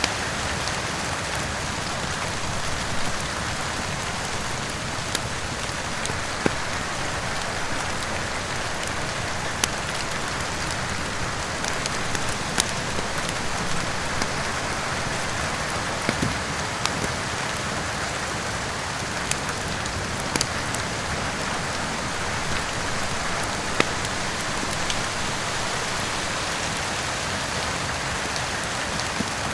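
Steady rain hissing, with sharp pops of a crackling wood fire every second or few.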